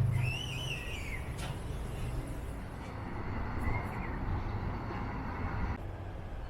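A bird chirps just after the start and again faintly near four seconds, over a steady low rumble.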